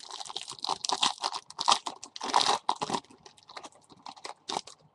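The plastic wrapper of a trading-card pack being torn open and crinkled by hand. The crackling is dense for about three seconds, then thins to a few lighter crinkles near the end.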